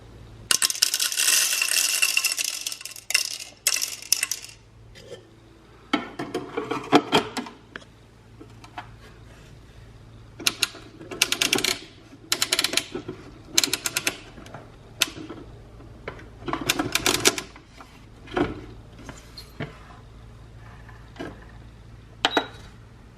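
A coffee grinder and its parts being handled: a noisy burst lasting about two and a half seconds near the start, then repeated short clusters of clicks and rattles.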